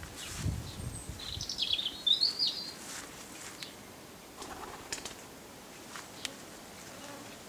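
A small songbird sings one short phrase of quick, high chirps that rise and fall, starting about a second in. Around it there is only quiet outdoor background with a few faint clicks.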